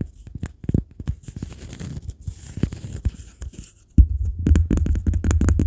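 ASMR trigger sounds close to the microphone: irregular tapping and scratching on small objects, then from about four seconds in a fast, even run of tapping over a steady low hum.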